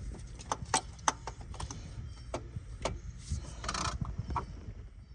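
Irregular metal clinks and knocks as a starter motor is shaken and worked loose in a car's engine bay, with a denser rattling stretch a little before four seconds in.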